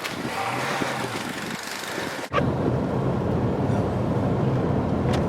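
Vehicle engine running under wind noise on the microphone. About two seconds in, the sound cuts off abruptly and switches to a louder, deeper steady engine rumble.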